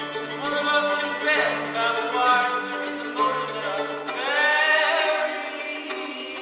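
Live song: a man singing a melody over a steady held drone note and a low bass line that steps between notes.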